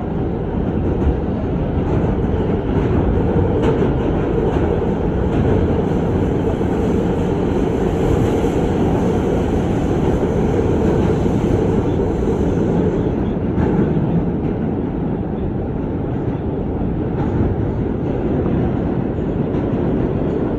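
R211A subway car running between stations, heard from inside the car: a steady rumble of the motors and the wheels on the rails, with a few faint clicks.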